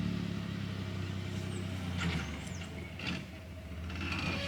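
Truck engine running steadily at a low, even hum, with a few faint high chirps over it.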